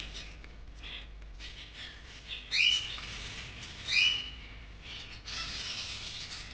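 Young budgerigar chirping twice, about a second and a half apart. Between the chirps come soft scratchy crackles of it nibbling greens.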